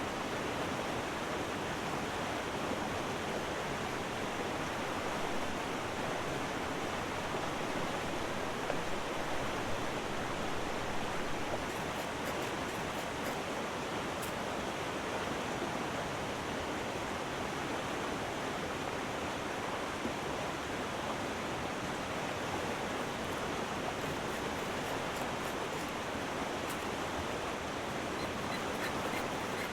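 River water rushing steadily, with a few faint, sharp ticks partway through and again near the end.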